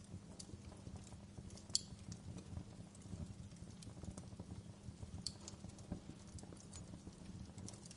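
Wood fire crackling in a fireplace: irregular sharp pops and snaps over a low, steady rumble of burning, with a louder pop a little under two seconds in and another around five seconds in.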